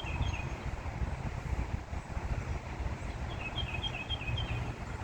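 A bird chirping in quick runs of short high notes, once at the start and again about three seconds in, over a steady low rumble.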